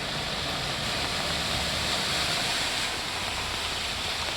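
Steady hiss of rain and rushing floodwater, slightly louder midway, with a car engine's low hum underneath as the car wades through water about a quarter of the way up its body.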